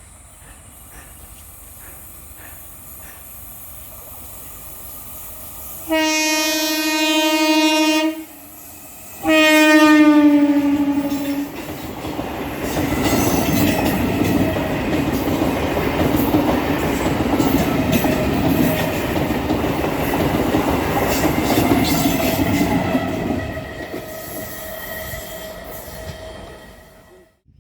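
Fast Indian Railways local train approaching and passing, sounding two long horn blasts about six and nine seconds in, the second dropping in pitch as it goes by. Its coaches then rush past with a rapid clickety-clack of wheels over the rail joints, fading near the end.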